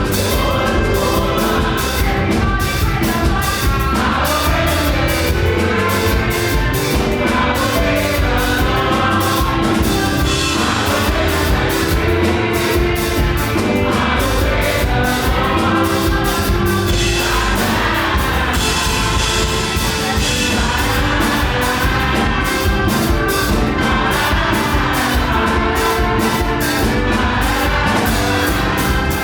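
Live up-tempo gospel praise music: a band with a fast, driving drum-kit beat under a group of voices singing together.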